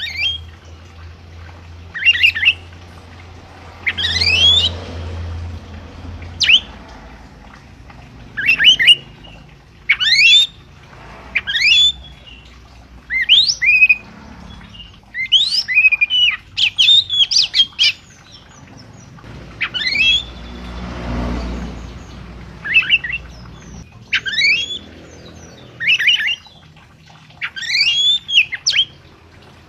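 A songbird giving loud, sharp, rising whistled calls in short phrases, repeated every second or two.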